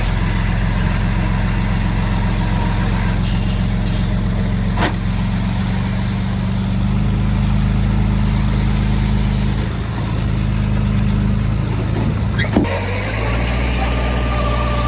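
Heavy diesel engine running steadily, its note shifting slightly about halfway through and again near the end, with a couple of short sharp knocks.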